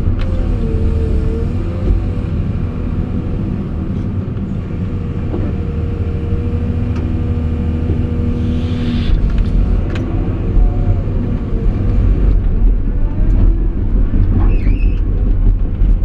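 Caterpillar 349E hydraulic excavator working: its diesel engine runs with a heavy, steady low rumble, and machine tones above it waver in pitch now and then as the load changes.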